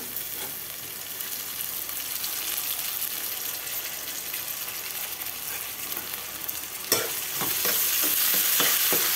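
Onions, green chillies, whole spices and fresh fenugreek leaves sizzling steadily in hot oil in a metal pot. About seven seconds in, a spoon knocks against the pot and scrapes through the mixture as it is stirred, and the sizzling grows louder.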